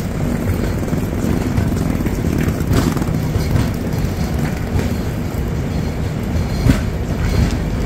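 Passenger train coach rolling slowly along a station platform, heard from its open door: a steady low rumble with a few sharp wheel clicks from the track.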